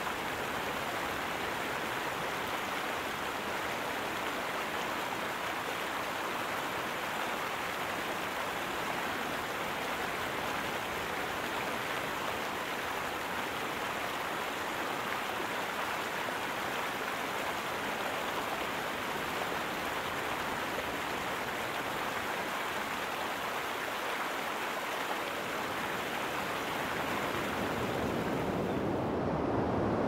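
Waterfall, a steady rush of pouring, churning water. About a second before the end it gives way to a deeper, slightly louder rush.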